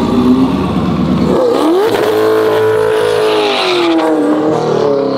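Twin-turbocharged C8 Corvette Stingray's pushrod V8 running low, then revving up about a second and a half in and holding high revs before easing off. New spark plugs have just been fitted to cure a misfire, and the engine sounds a lot less pissed.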